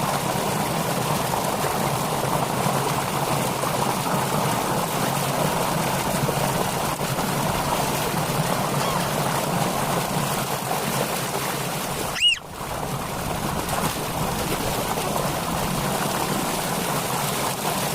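Flowing water rushing steadily, like a stream or small cascade. About twelve seconds in, a brief, loud, high-pitched squeak cuts through, and the water noise dips for a moment.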